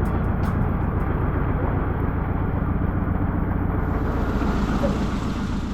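Steady low rumble of a vehicle in motion, ebbing away near the end.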